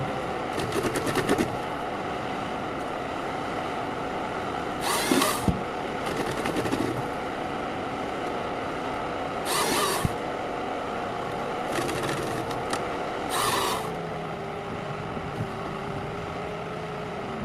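Forestry harvester at work: the machine's engine runs steadily, with a short noisy burst every four to five seconds and a couple of sharp cracks.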